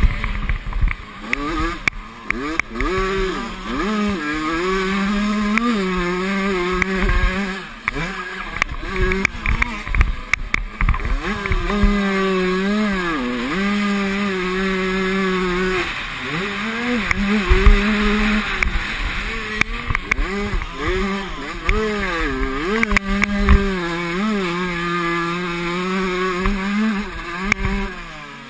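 Motocross bike engines racing, their pitch repeatedly climbing, holding and dropping as the throttle is opened and shut through corners and jumps. Wind buffets the microphone now and then.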